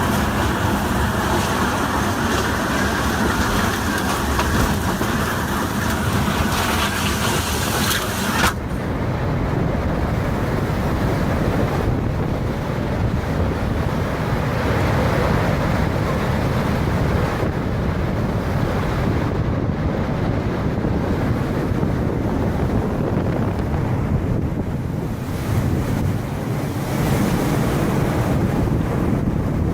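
Strong storm wind, with gusts buffeting the microphone in a loud, steady rush. About eight seconds in, the sound cuts abruptly from a hissing roar to a lower, rumbling wind.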